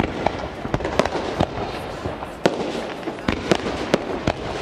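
Aerial firework shells bursting in quick succession: about a dozen sharp bangs at uneven intervals over a continuous crackle.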